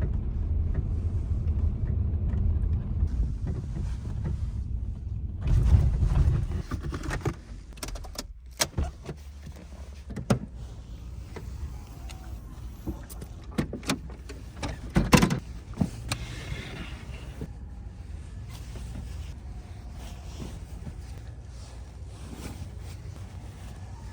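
Vehicle running with a steady low rumble for the first several seconds, swelling louder around six seconds in, then a quieter stretch of scattered clicks and knocks.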